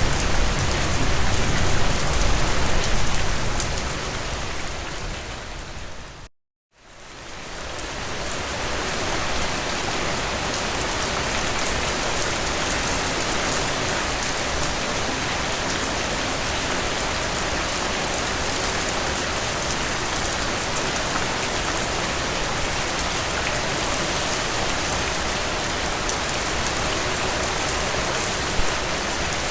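Strong, steady rain with dense drops pattering on a surface. About six seconds in it fades down to a brief silence, then fades back up within a couple of seconds and carries on evenly.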